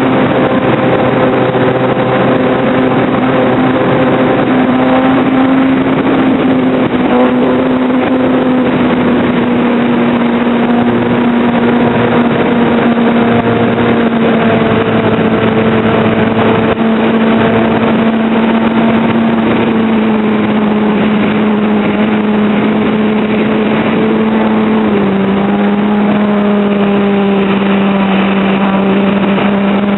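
Motor and propeller of a radio-controlled Cessna model plane running steadily in flight, heard from on board over a constant rush of wind. The pitch sinks slowly, with a small drop about 25 seconds in.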